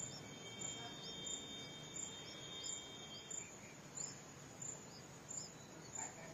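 Faint outdoor garden background with an insect chirping a high, even pulse about three times every two seconds. Short high chirps and a steady thin whistle sound through the first half.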